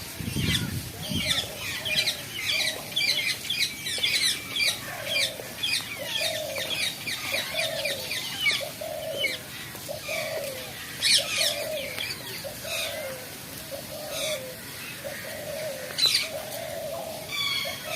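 Birds calling: a low note repeats about once a second beneath many short, high chirps, with a few short sharp sounds about eleven and sixteen seconds in.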